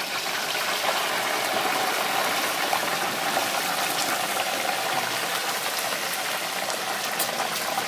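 Hot oil in a turkey fryer pot bubbling and sizzling steadily as a whole turkey is lowered into it.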